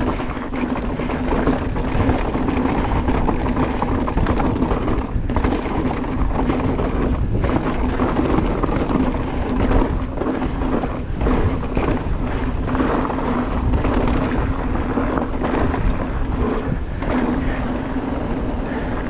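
Marin Alpine Trail E2 electric mountain bike ridden downhill on a dirt trail: steady wind buffeting on the microphone over tyre rumble, with frequent knocks and rattles as the bike's suspension takes the bumps and a steady hum underneath.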